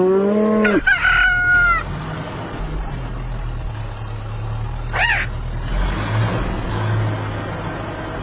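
A rooster crowing once, a cock-a-doodle-doo lasting about two seconds, followed by a steady low hum and a short chirp about five seconds in.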